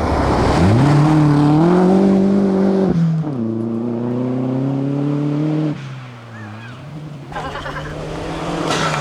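Seat Ibiza Cupra hillclimb car accelerating hard, its engine note rising under load. There is a gear change about three seconds in, then it pulls again. The engine note drops away and quietens just before six seconds, then builds again near the end.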